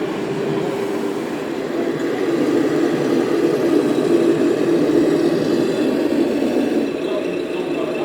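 A radio-controlled scale model vehicle running steadily, its motor and gears making a continuous mechanical drone that swells slightly partway through.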